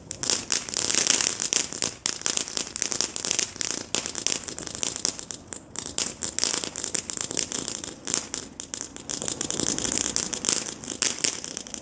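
Firework burning on the ground with a fast, dense crackle and hiss of many small pops, which cuts off abruptly at the end.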